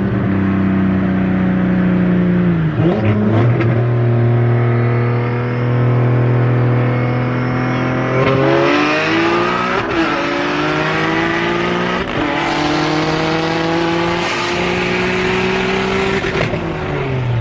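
Single-turbo Nissan 370Z's 3.7-litre V6 running on open turbo dumps with no exhaust fitted. It holds steady revs at first, then from about halfway accelerates hard, its pitch climbing through two gear changes before the revs drop near the end.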